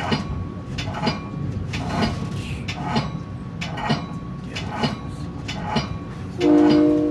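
Metra commuter train passing, its wheels clicking over rail joints about once a second. A multi-tone train horn blast starts near the end and is the loudest sound.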